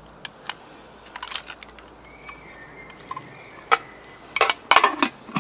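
Small hard objects clicking and clattering against a metal camping pot as the soaked fire-starting kit (matches, lighters, ferro rod) is handled. A few light clicks early, then a quick cluster of louder clatters near the end.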